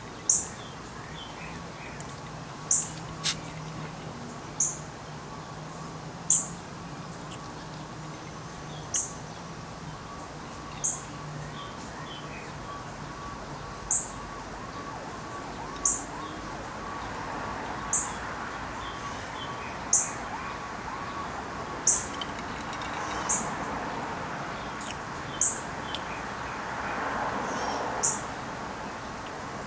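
A bird repeating a single short, high-pitched chirp about every two seconds, over a steady background hiss.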